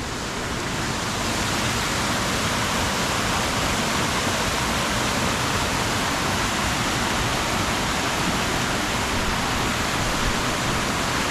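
Steady rushing of river water over rocks, the Endrick Water running through its falls at Gartness, growing a little louder over the first second.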